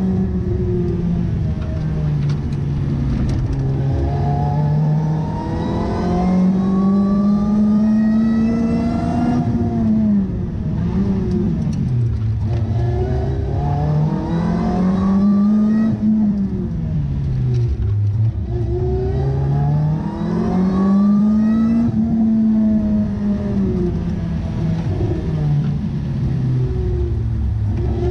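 Lotus Elise engine heard from inside the cabin, revving up under acceleration and falling away as the car slows for corners, several times over, with no break.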